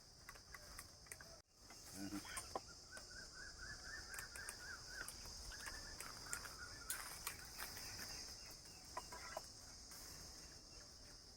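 Faint outdoor ambience: a steady high insect drone, with a bird calling in a quick run of repeated notes a few seconds in and scattered light clicks.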